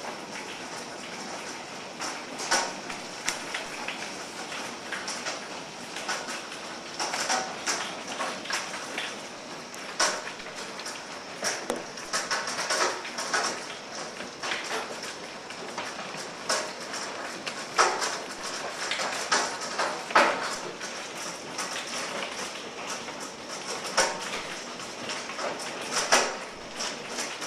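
Hailstones falling and striking hard surfaces in a hailstorm: a steady patter of rain and hail, broken by irregular sharp clicks and knocks of single stones, with several louder hits scattered throughout.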